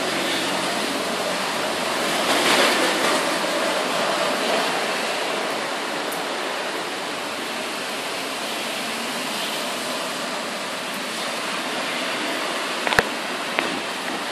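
Heavy thunderstorm rain pouring down in a steady hiss, swelling a little about two seconds in. A few sharp clicks near the end.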